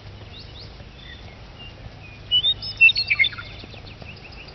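Songbird singing a quick burst of high chirping notes about two and a half seconds in, with fainter scattered chirps of other birds around it.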